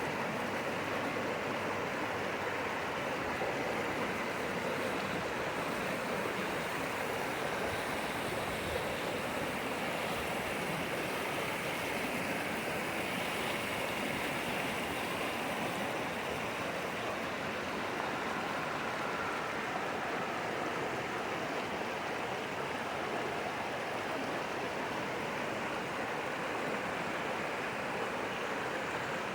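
Flowing water rushing steadily, an even unbroken noise with no distinct events.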